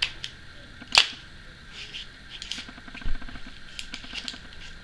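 Small clicks, taps and a dull knock from a metal bipod being handled: a sharp click about a second in, a low thump past the middle, and light scattered ticks.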